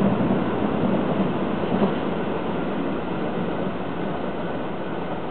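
Train running along the rails past a level crossing: a steady rumble of wheels and carriages that eases a little after about two seconds.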